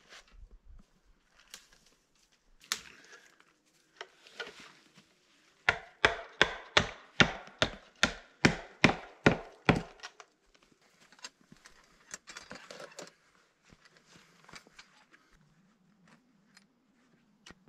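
A quick run of about a dozen sharp knocks on wood, roughly three a second, as from a hatchet or hammer striking wood. Fainter scattered knocks and rustling come before and after.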